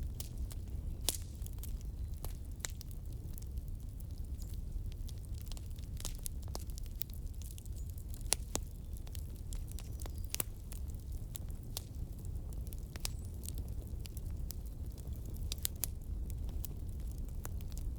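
Wood fire burning steadily: a low rumble of the flames with irregular sharp pops and crackles of the burning firewood.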